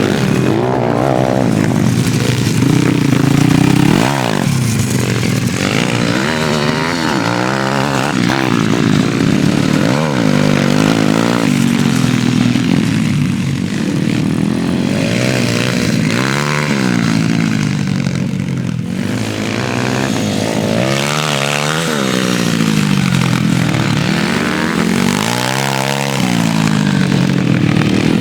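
Pit bike engines running hard, their pitch climbing and dropping again and again with throttle and gear changes.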